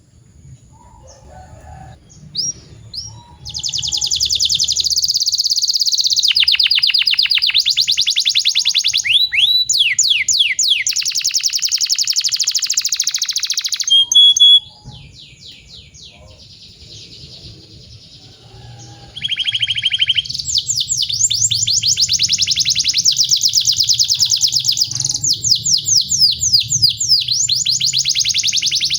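Canary singing long rolling phrases of rapid repeated notes and trills. There is a pause of a few seconds in the middle before the song resumes.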